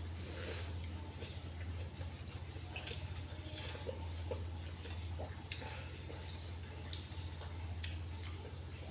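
Close-miked eating sounds from a bowl of spicy instant noodles: wet slurps and scattered mouth clicks, over a steady low hum.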